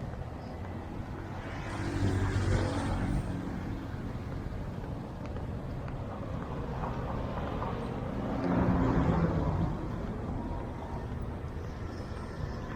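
Road traffic: two motor vehicles drive past close by, the first about two seconds in and the second near the nine-second mark, over a steady hum of engines.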